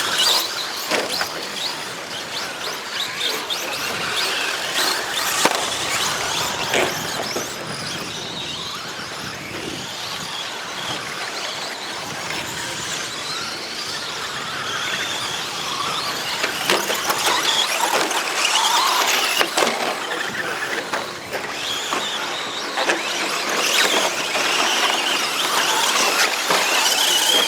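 Several 2WD RC short course trucks racing on a dirt track, their motors giving a high-pitched whine that rises and falls as they accelerate and brake, with scattered clicks and knocks from the trucks on the track.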